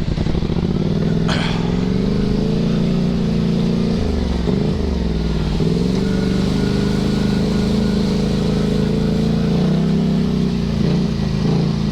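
Yamaha YZ450FX single-cylinder four-stroke dirt bike engine running under steady throttle while riding, easing off and picking back up about four seconds in. A single sharp knock about a second in.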